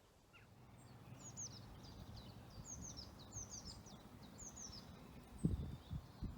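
A songbird singing short phrases of quick, high, downward-sliding chirps, repeated several times, over a faint low outdoor rumble. A few low bumps come near the end.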